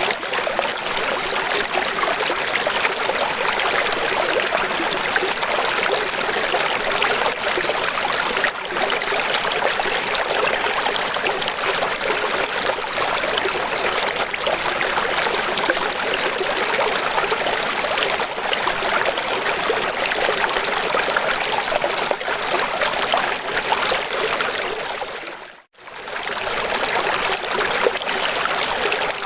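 Steady rushing, trickling water, like a stream or small waterfall, with no pitched sounds in it. Near the end it drops out for a moment and comes straight back, as at a loop splice.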